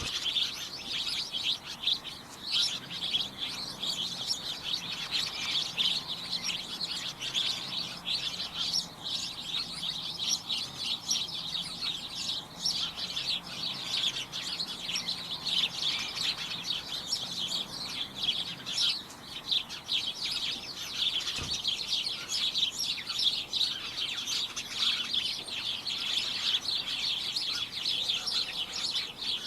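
A flock of small birds chirping and tweeting all at once: a dense, overlapping chatter of short, high chirps with no break.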